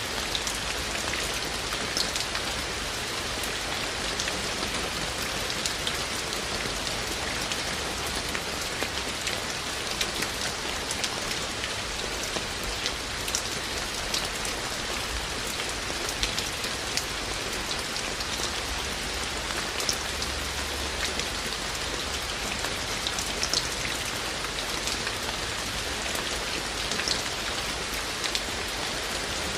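Steady rain falling, a constant hiss with scattered louder individual drops ticking now and then.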